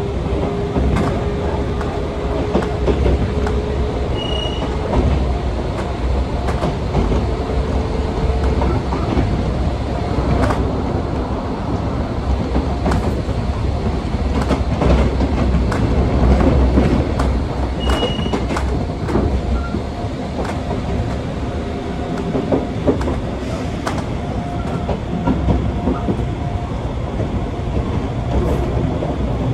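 Gakunan Railway electric train running, heard from inside the passenger car: a steady rumble with the wheels clicking over rail joints. A low whine rises slightly in pitch over the first eight seconds or so, and two brief high squeaks come about 4 and 18 seconds in.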